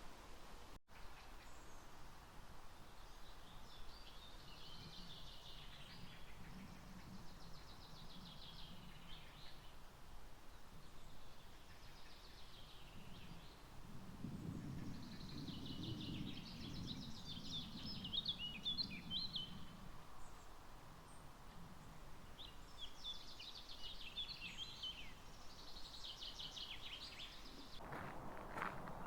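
Songbirds singing faintly in short trilling phrases, one every few seconds, with a low rumble in the middle stretch. Footsteps start near the end.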